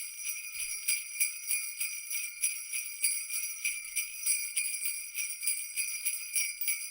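Jingle bells shaken in a steady rhythm, about three shakes a second, with a bright high-pitched jingle.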